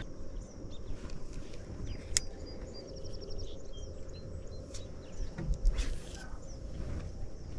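Outdoor lake ambience: birds chirping, with a quick trill about three seconds in, over a low steady wind rumble. A few sharp clicks and a low knock about six seconds in.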